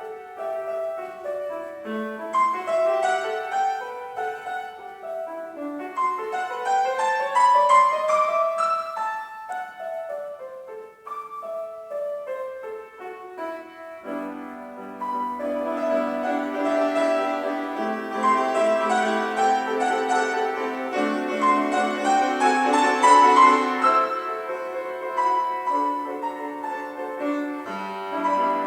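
Solo piano playing a lyrical piece: a rising run of notes about six seconds in, falling lines after it, then fuller and louder chords from about halfway through.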